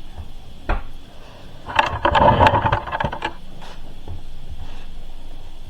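Hard plastic washing balls clattering and knocking against one another as they are grabbed and handled, in a rapid rattling run of clicks that lasts about a second and a half, after a single knock just under a second in.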